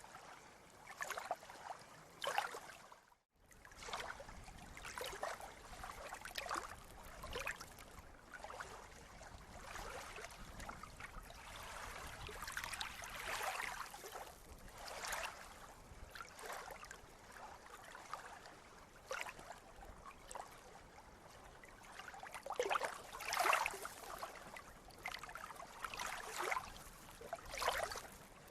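Water splashing and lapping in uneven, irregular bursts, with a brief cut to silence about three seconds in.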